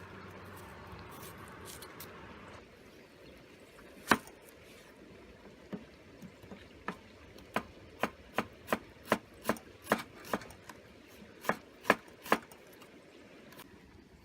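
A series of sharp chopping strikes: one about four seconds in, then a run of about a dozen more, two or three a second, near the end.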